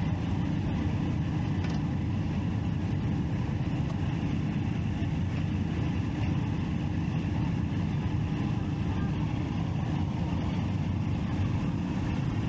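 Triumph Street Triple 675's inline three-cylinder engine running steadily as a constant low rumble, with no change in revs.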